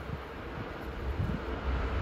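Low, steady rumble of trains running past at a distance, with wind buffeting the microphone.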